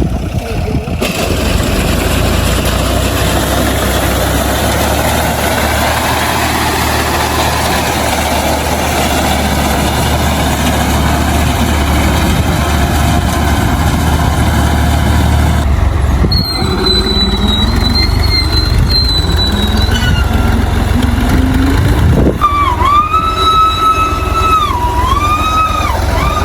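Tractor engine running steadily and loudly while cutting wheat. In the last third a wavering, looping high-pitched tone, like a siren or a melody, rises over the engine.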